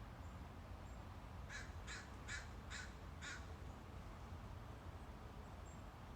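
Crow cawing five times in quick succession, about two caws a second, in the first half.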